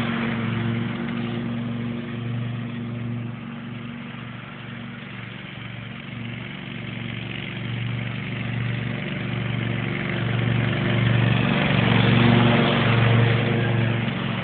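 Riding lawn mower engine running steadily while mowing, fading somewhat in the middle and growing louder again near the end as the tractor comes closer.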